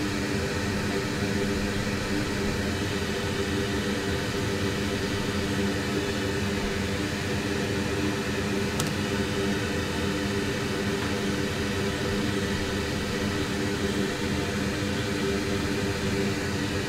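Steady hum and hiss of an electric fan running, with several steady low tones in the hum and one faint click about nine seconds in.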